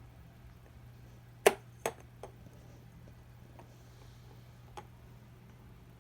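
Kittens at play knocking against something hard: a few short sharp knocks, the loudest about a second and a half in, two smaller ones right after it, and one more near the end, over a low steady hum.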